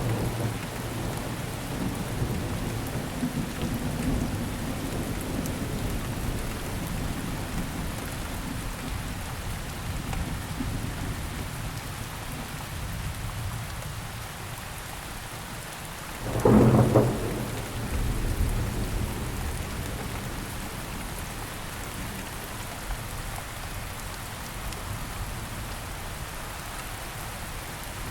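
Steady rain falling on surfaces, with low thunder rumbling under it. A little past halfway a short, louder clap of thunder stands out, followed by more low rumble.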